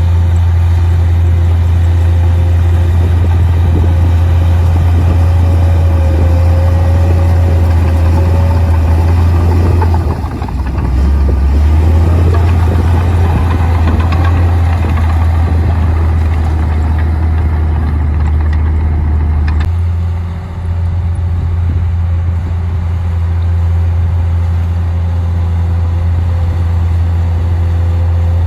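Komatsu D58P bulldozer's diesel engine running with a strong, steady low drone. Its note shifts and dips briefly about ten seconds in, and the level dips again around twenty seconds in.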